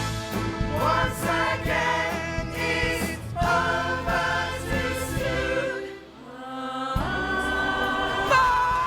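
Music: voices singing together in a choir with instrumental backing. There is a brief dip about six seconds in, then a long held chord.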